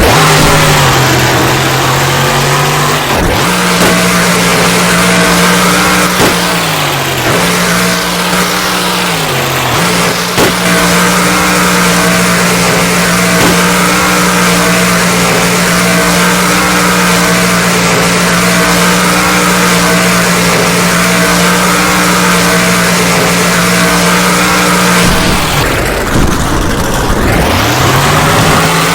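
Wolverine monster truck's engine running hard at high revs, held at a steady pitch for long stretches. The revs drop and climb back a few times, with a deep drop and rise near the end.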